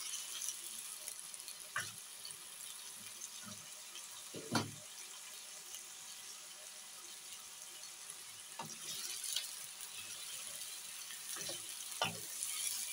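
Potato slices with cumin seeds frying in oil in a wok: a steady sizzling hiss, with a few knocks of a wooden spoon as they are stirred.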